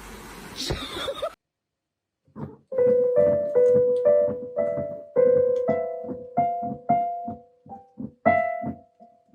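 A short stretch of steady hiss with a sharp knock, cut off about a second in; then, after a brief silence, a piano playing a slow run of single notes, each struck and left to ring.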